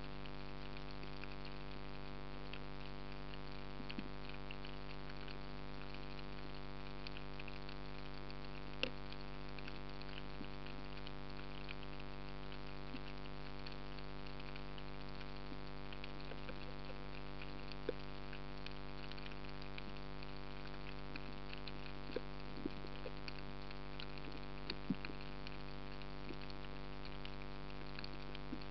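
Underwater ambience: a dense, faint crackle of tiny clicks over a steady hum, with a few sharper clicks here and there.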